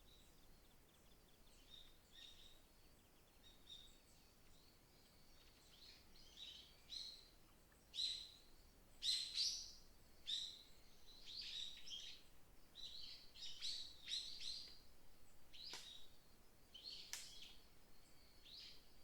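Small forest birds chirping and singing: a run of short, high chirps and trills that grows busier and louder about halfway through, over a faint steady hiss of outdoor ambience.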